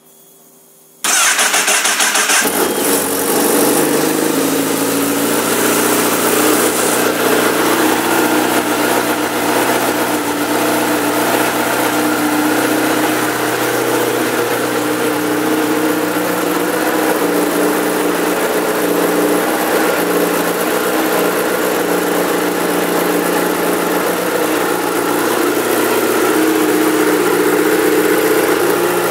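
A 2011 Honda CBR1000RR's inline-four engine is started; it catches about a second in and then idles steadily.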